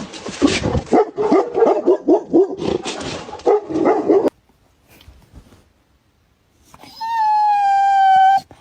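Dog barking and yipping rapidly, several calls a second, cutting off suddenly about four seconds in. After a short quiet, one long high held tone, falling slightly in pitch, near the end.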